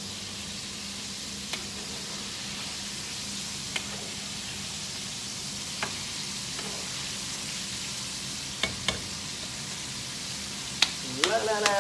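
Chicken pieces frying in hot oil in a frying pan: a steady sizzle, with several sharp clicks as a spoon knocks against the pan while the pieces are stirred.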